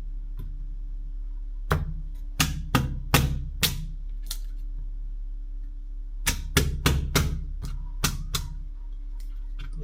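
Kitchen knife chopping into a hard sweet potato on a cutting board: two bursts of about six heavy knocks each, a few seconds apart.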